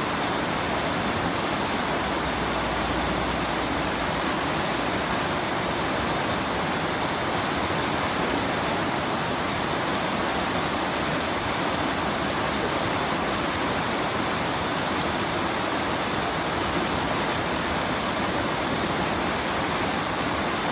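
Mountain valley stream, water rushing and splashing in a steady, unbroken flow.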